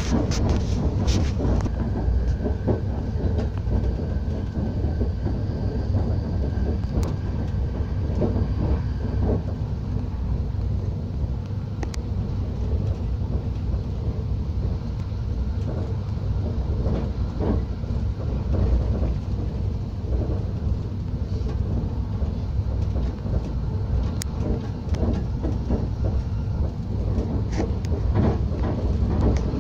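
TER regional train heard from inside the carriage while running along the line: a steady low rumble of wheels on rails, with scattered short clicks and knocks. A faint high whine sounds during the first several seconds.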